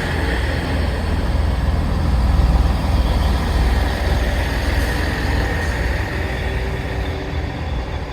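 Northern passenger train running through the station: a loud, steady low rumble of its engine and wheels on the rails.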